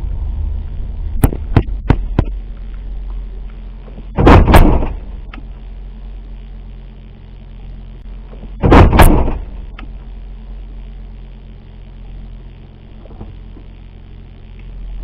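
Vehicle cabin rumble from road and engine noise, broken by a few sharp clicks between one and two seconds in and by two loud double bangs, about four and nine seconds in, the sound of hard impacts or jolts.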